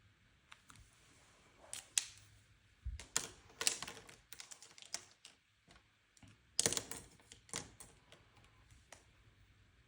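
Light clicks, taps and short paper rustles from stationery being handled over a paper planner: pages, stickers and pen. They come in irregular clusters, busiest a few seconds in and again about two-thirds through.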